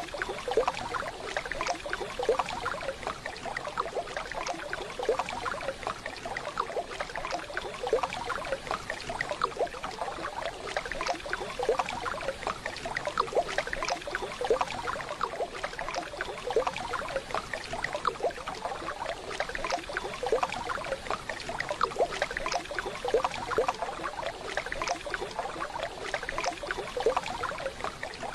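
Waterfall: water splashing and gurgling steadily.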